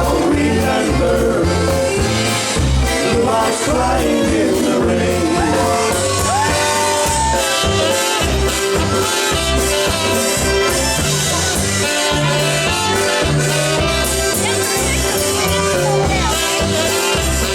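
Polka band playing live: an instrumental passage between sung lines, over a bass that alternates between two notes in a steady rhythm.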